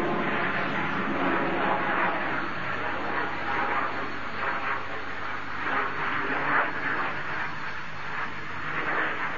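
Me 262 jet aircraft engines heard from a distance, a steady rushing noise that swells and fades a little.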